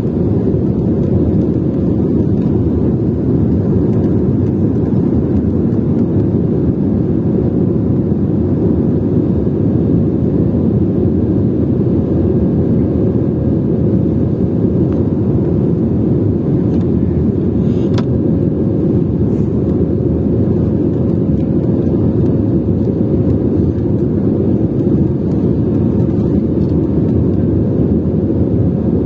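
Airliner's jet engines and airflow: a steady, unchanging low roar with a faint steady hum running through it.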